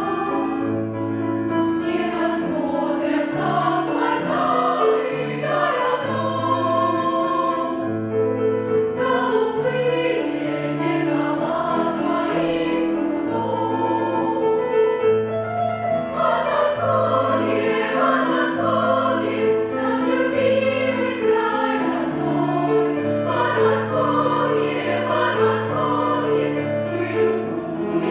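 Children's choir singing in unison over an instrumental accompaniment with a steady, regular bass line.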